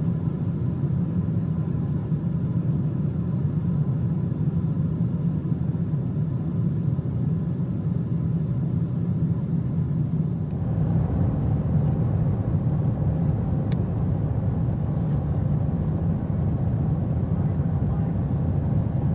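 Steady airliner cabin noise of a Boeing 777-200ER in cruise: a constant rumble of engine and airflow. About halfway through the noise gets a little hissier, and a few faint ticks follow.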